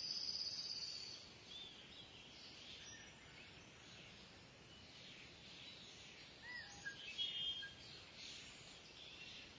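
Kingfisher calling: a high, rapid trill in the first second, then scattered short chirps and whistles, with another brief trill around seven seconds in, over a faint outdoor background hiss.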